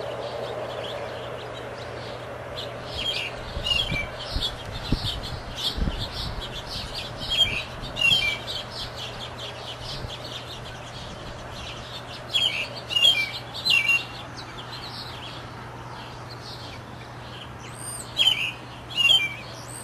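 A thrush kept as a songbird (Indonesian 'anis') singing in short, quick runs of high chirping phrases, with pauses of a few seconds between the runs. A faint steady hum runs underneath.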